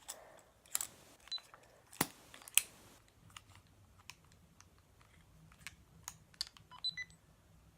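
Scattered plastic clicks and taps from handling a camera's waterproof case, with two sharper snaps about two and two and a half seconds in and a run of small ticks near the end.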